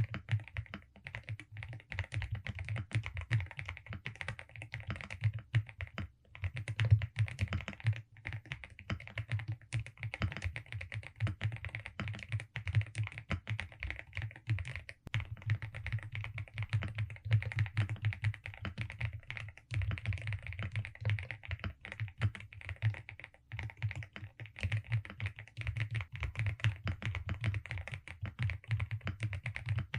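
Continuous typing on a Velocifire RX870 mechanical keyboard with DSA keycaps: a dense stream of key presses, with short pauses about six, eight, fifteen and twenty seconds in.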